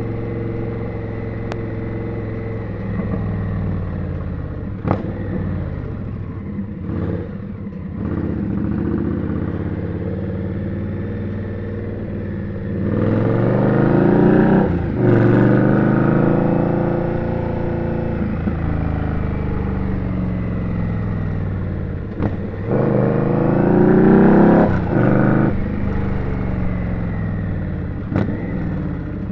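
Indian Scout motorcycle's V-twin engine running through city traffic. It accelerates twice, at about thirteen and twenty-two seconds in, with the pitch rising and then dropping at a gear change each time, and cruises steadily in between.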